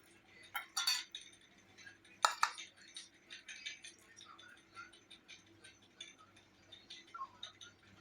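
Tableware clinking as someone eats: a plate and utensils knocked together. There are two louder clinks, about a second and a bit over two seconds in, with small ticks between them.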